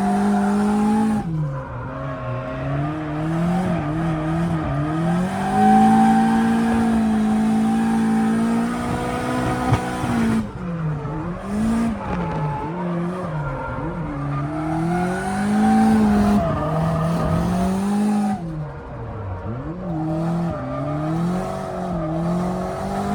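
Drift car engine held at high revs, its note dipping and climbing again several times as the throttle is lifted and reapplied through the drift, with tires squealing.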